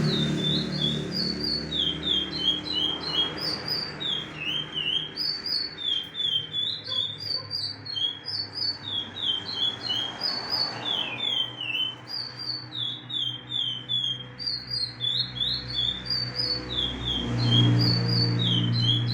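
Curió (chestnut-bellied seed finch) singing its 'praia clássico' song: a continuous run of quick, clear whistled notes that slur up and down, with barely a pause.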